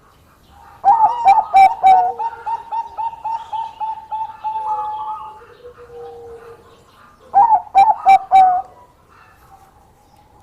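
Zebra dove (Bangkok-strain perkutut) singing. A loud call starts about a second in and runs into a fast series of rapid coos lasting about four seconds; a second, shorter phrase comes near eight seconds in. A fainter, lower coo sounds in between.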